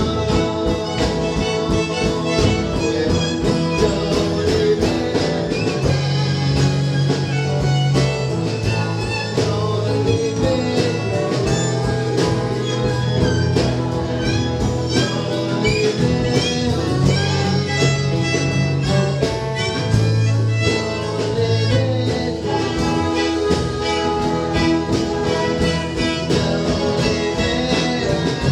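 Live band playing a country-style song: fiddle over guitar and a steady beat, with some singing.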